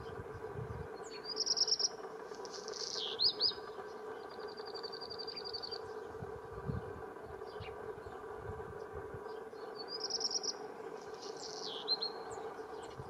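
A songbird singing two short high phrases about nine seconds apart, each a held note followed by a quick downward sweep, the first running on into an even trill, over a steady hum.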